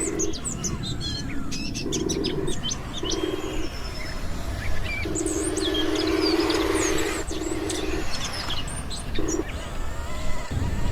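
Small birds chirping and whistling throughout, while a low electric hum from a radio-controlled construction machine's motor switches on and off several times, the longest run lasting about three seconds midway through.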